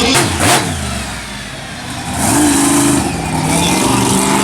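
Monster truck engine revving: the pitch drops off just after the start, then climbs again about two seconds in and holds high.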